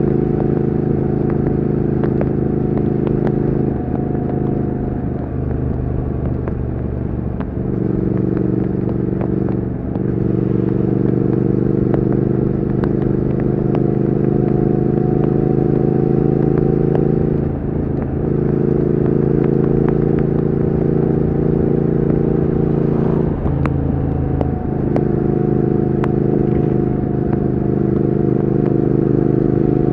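Triumph Speed Twin 1200's parallel-twin engine and exhaust running under way at a steady note, which briefly breaks and resumes about five times.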